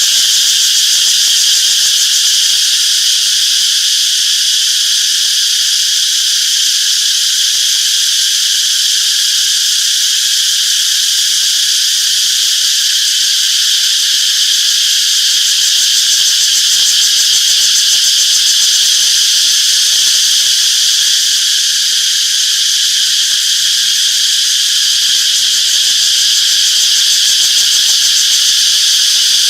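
Chorus of cicadas buzzing, a dense, steady high-pitched drone without a break.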